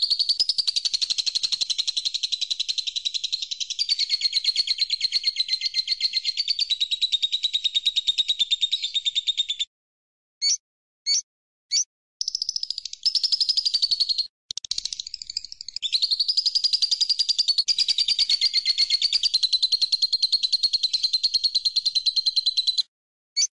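A songbird singing long, rapid trills of closely spaced high notes that waver slightly in pitch. The trill stops about ten seconds in, a few short separate chirps follow, and then it resumes with a brief stutter midway before running on until near the end.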